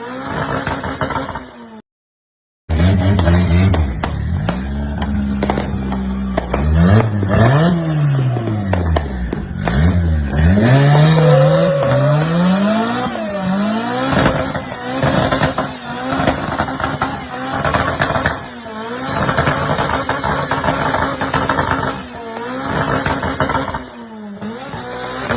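Suzuki Samurai engine idling, then revved up and down several times in quick blips, and running on unevenly afterwards. The sound drops out briefly about two seconds in.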